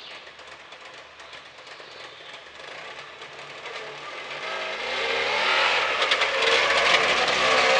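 Trabant's two-stroke engine revving as the car pulls away and drives past, getting louder from about halfway in, its pitch rising, and loudest near the end.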